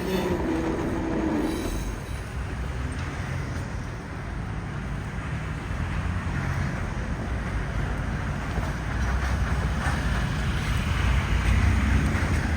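KTX train running past at a level crossing. A mid-pitched wheel sound fades out in the first two seconds, leaving a steady low rumble that grows louder in the last few seconds.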